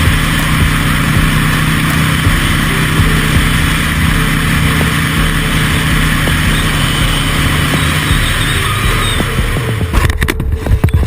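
Motor vehicle running steadily: a low engine hum under loud rushing road and wind noise, broken by several sharp knocks about ten seconds in.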